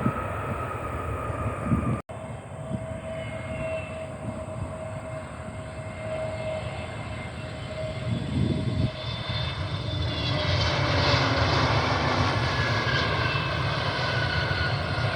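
Boeing 777-200 airliner arriving, its jet engines running with a steady whine over a low rumble. The engine tones slide slowly lower in pitch, and the sound grows louder from about ten seconds in.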